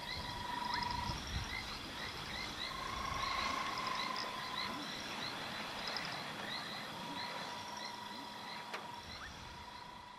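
Frogs calling in a rain-soaked night chorus: a short chirp repeats about once or twice a second, while a longer steady note swells and drops out now and then.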